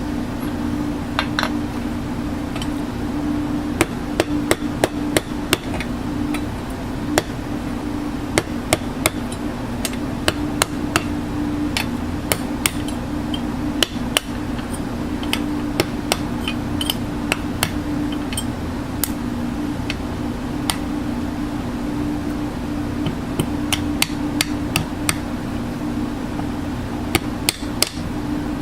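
Repeated sharp hammer taps, irregular and often in quick pairs or threes, over a steady low hum.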